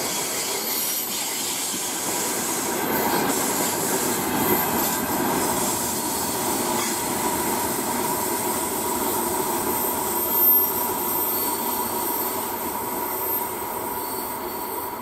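Freight train wagons rolling past at speed: a steady rolling rumble with a thin, steady squeal from the wheels, easing off slightly near the end.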